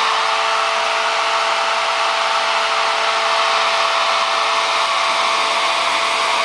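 Hair dryer blowing steadily, an even rush of air with a faint steady motor whine.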